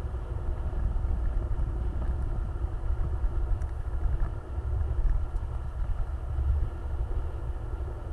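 Off-road vehicle's engine running with a steady low rumble.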